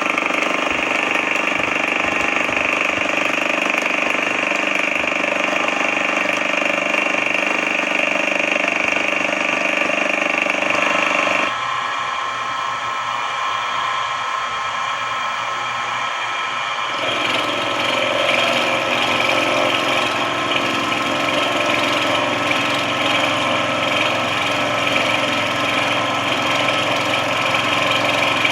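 Sodré SX2 benchtop milling and drilling machine running steadily, a machine whine of several steady tones. About eleven seconds in, the sound changes, its lower notes dropping out and the level falling slightly, and about seventeen seconds in it shifts again to a new steady pitch.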